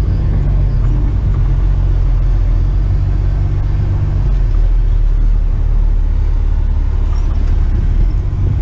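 Heavy tipper truck's diesel engine running steadily with a low rumble.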